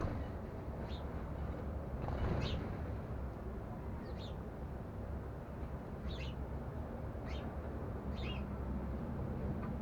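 Sparrows giving short, scattered chirps, about six of them spaced a second or more apart, over a steady low background rumble.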